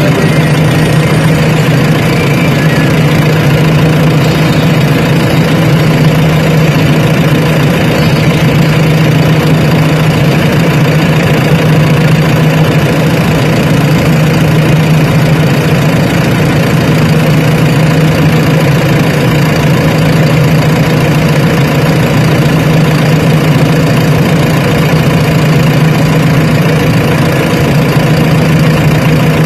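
Diesel engine of earth-moving machinery running loudly and steadily at a constant speed, with an even low hum and no revving.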